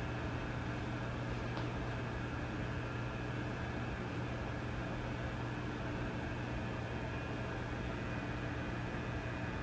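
Vintage tube amplifier idling with a steady low hum under an even hiss of static.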